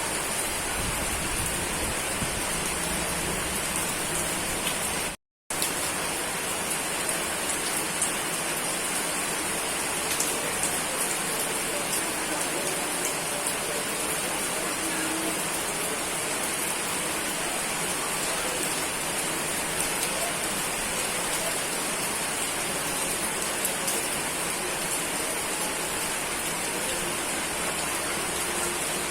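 Steady rain falling, an even hiss of many drops with a brighter high band, cut to silence for a moment about five seconds in.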